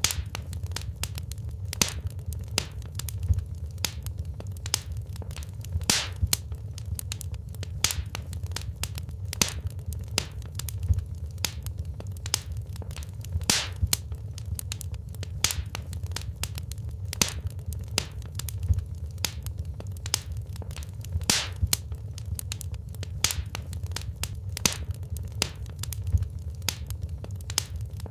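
Wood fire in a fireplace crackling and popping, with frequent sharp snaps over a steady low rumble of the flames.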